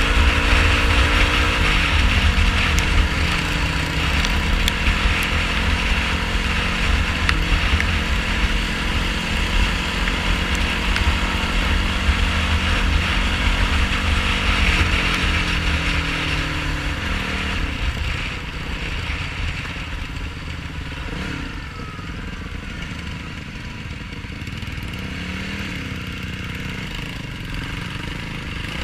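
Yamaha YFZ450R sport quad's single-cylinder four-stroke engine running under changing throttle: its pitch holds, then drops sharply twice as the rider lets off or shifts. Heavy wind rumbles on the microphone, and the engine grows quieter in the last third.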